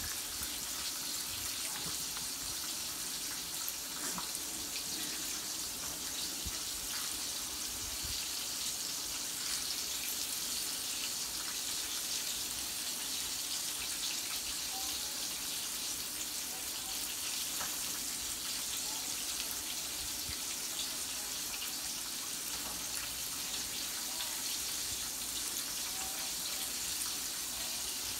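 Turkey chops frying in a skillet: a steady sizzle with small scattered crackles.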